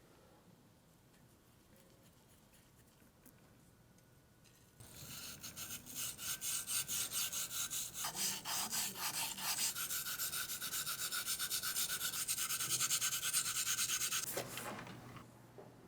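Rapid back-and-forth rubbing strokes by hand on a pistol part, about three a second. They start about five seconds in, run steadily and fade out near the end.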